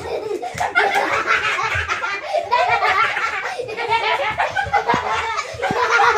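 People laughing, without a break.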